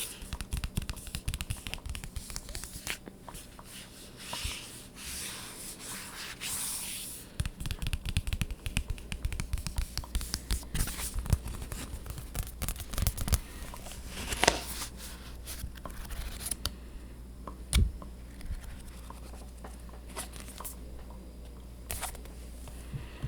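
ASMR scratching and tapping on objects. Dense scratching and rubbing at first, then quick taps and clicks from about seven seconds in, thinning to scattered taps near the end.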